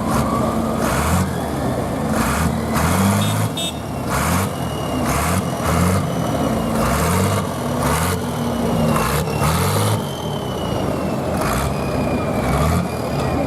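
A pulling tractor's diesel engine runs hard, its revs wavering up and down. A thin high whine drifts slowly down in pitch over it, and a sharp rasp comes about once a second.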